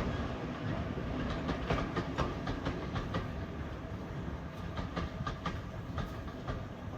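Railway train running along the track: a steady low rumble of the wheels with irregular clicks and knocks, slowly growing quieter.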